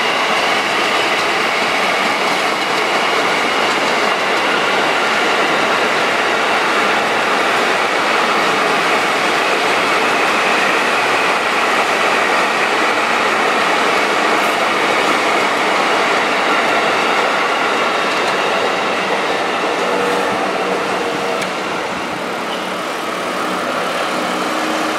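Electric commuter train passing at close range, its steel wheels running steadily on the rails. The noise eases a little near the end.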